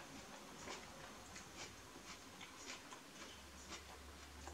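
Faint, irregular wet clicks of a mouth chewing a sub sandwich, a few a second.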